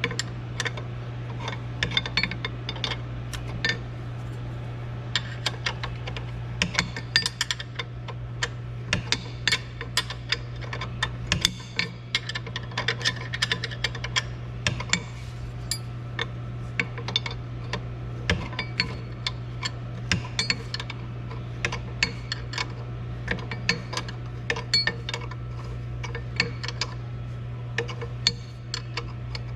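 Hand ratchet wrench clicking in short irregular runs as bolts are worked and tightened, over a steady low hum.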